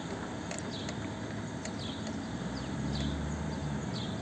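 A small bird calling outdoors, repeating short high falling chirps. A low rumble swells in the middle, and there are a few faint clicks.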